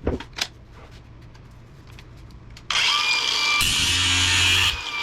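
A handheld power tool starts abruptly about two and a half seconds in and runs loudly with a steady high whine, working into the air conditioner motor's stator to free the copper. A couple of light knocks from handling come before it.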